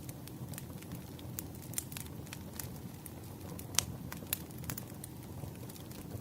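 Wood fire crackling: irregular sharp pops and snaps over a steady low rustle of burning firewood, with one louder pop a little past halfway.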